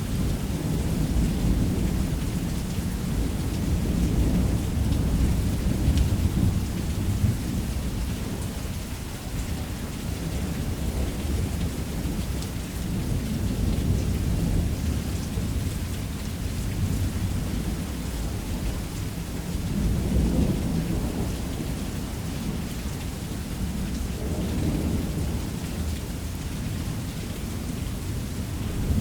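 Heavy rain falling steadily on a roof with low, rolling thunder that swells and fades several times.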